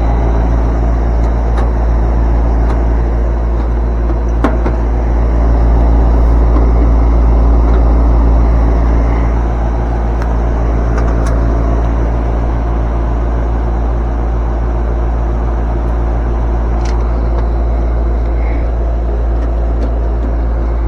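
Steady, loud machine hum with a constant low drone, with a few light clicks and a sharper knock about four and a half seconds in.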